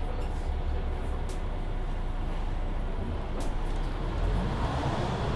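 Mercedes-Benz Citaro C2 hybrid city bus running with a steady low rumble. About four seconds in, a rising whine sets in as the drivetrain speeds up.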